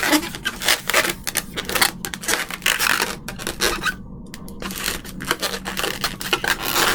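Inflated 260 latex modelling balloon rubbing and squeaking as hands bend and twist it, a dense run of short rasping strokes with a brief lull about four seconds in.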